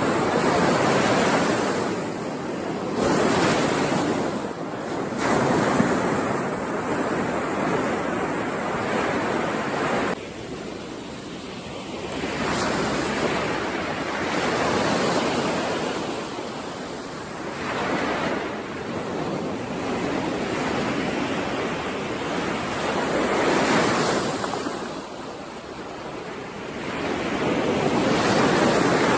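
Ocean surf breaking on a shore, the wash of the waves swelling and ebbing every few seconds.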